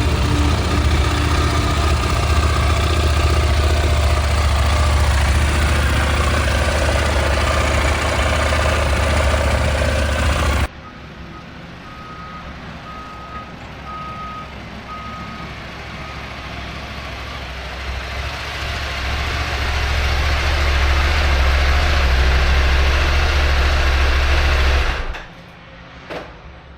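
A vehicle engine running steadily with a deep hum. After a cut, a short series of about five evenly spaced beeps sounds over quieter engine noise, which then swells before cutting off.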